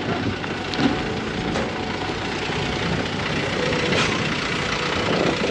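Cargo truck engine idling steadily, with a few light knocks.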